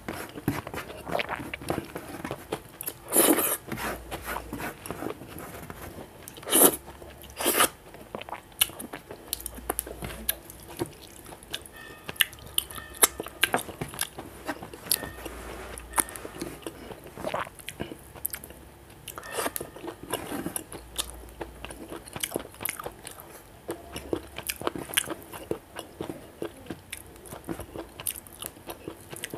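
Close-miked eating sounds: a man chewing a mouthful of rice and fish curry, with wet mouth clicks and repeated crunches. A few louder crunches stand out in the first eight seconds.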